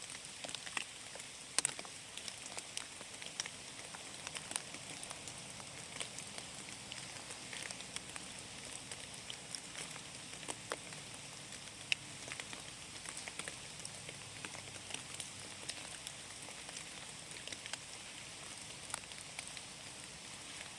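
Rain falling in a forest: a steady soft hiss with many irregular, sharp drop ticks.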